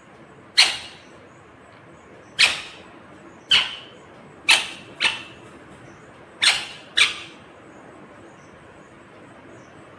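Indian ringneck parrot giving seven short, loud, sharp shrieks, irregularly spaced, some in quick pairs, then stopping about three quarters of the way through.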